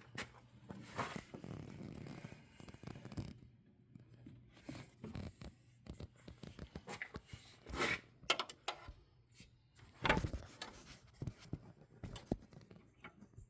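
Hand-work noises under the hood: irregular rustling and scraping with sharp clicks and knocks of parts and tools being handled, two louder knocks in the second half.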